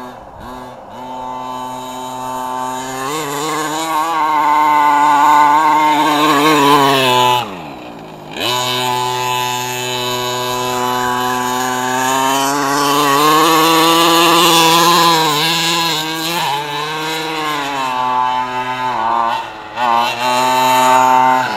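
Redcat 1/5-scale RC monster truck's 32cc two-stroke gas engine revving hard under throttle, its pitch climbing and wavering. It lets off sharply about seven and a half seconds in, then opens up again, with a few quick blips of throttle near the end.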